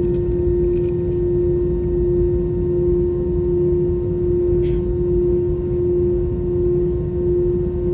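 Airbus A321's twin CFM56 engines running at idle, heard from inside the passenger cabin: a steady low rumble under a constant mid-pitched hum. A faint click about halfway through.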